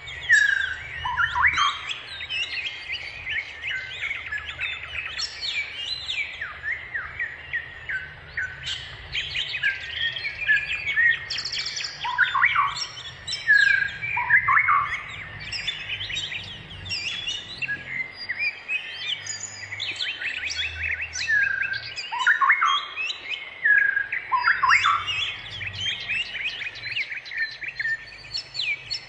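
Small birds chirping and twittering in a dense, continuous chorus of short, overlapping notes, many of them quick downward slides.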